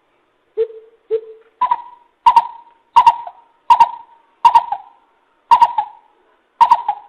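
Greater coucal calling: a series of deep, hollow hoots. Two lower notes are followed by seven louder, higher notes spaced less than a second apart.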